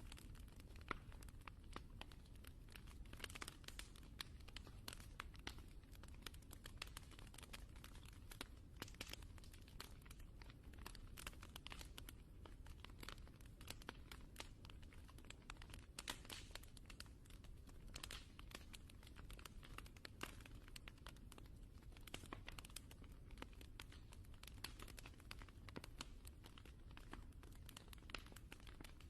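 Wood fire crackling in a fireplace: a dense, irregular run of small pops and snaps over a low, steady rumble of the flames.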